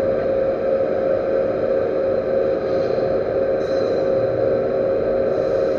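Metal lathe running steadily: an even mechanical hum with a held mid-pitched tone.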